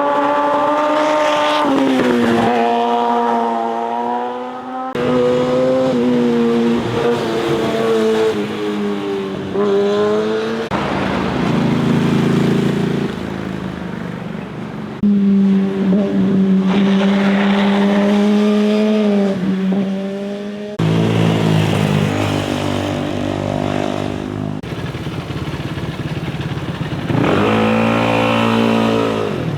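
Motorcycle engines passing one after another, revving and changing gear; the engine pitch drops and climbs as each rider brakes and accelerates.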